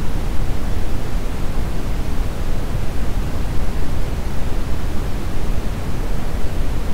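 Steady brown noise: an even, continuous rush with most of its energy in the low end, thinning out toward the highs.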